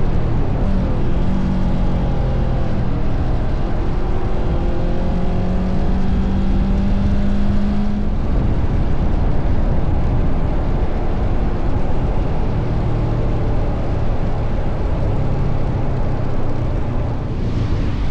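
Honda CBR500R's parallel-twin engine running on the move, with wind rushing over the microphone. The engine note rises and falls over the first half, then settles lower and steadier.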